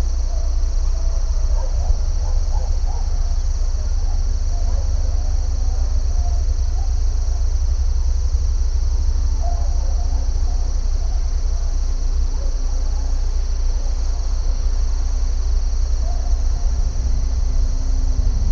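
A steady high-pitched insect chorus, crickets by their sound, over a constant low rumble, with scattered short calls from other animals now and then.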